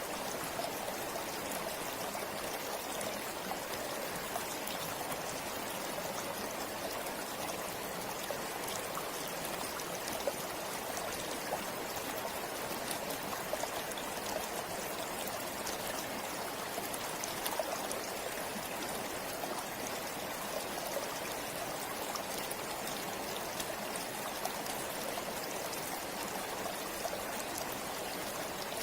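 Forest river or stream flowing steadily over rocks: an even rush of water with small splashes and trickles.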